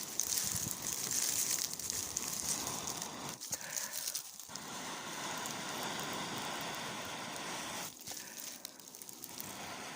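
Dry straw tinder rustling and crackling as it is handled. Then long rushes of breath blowing on the smouldering tinder, in stretches of a few seconds with brief pauses, to make it catch.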